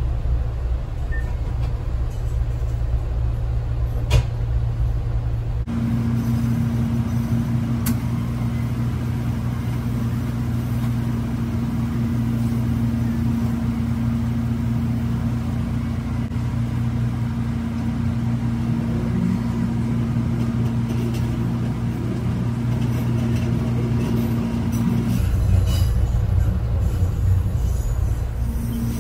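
Diesel railcar running along the track: a steady low engine and running drone. A held tone joins in about six seconds in and drops out abruptly near the end, with one sharp click about four seconds in.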